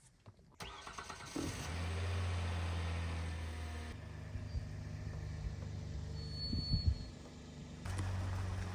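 Minivan driving, heard from inside the cabin: steady engine and road hum. The hum shifts abruptly about four seconds in and again near the end, with a few bumps just before.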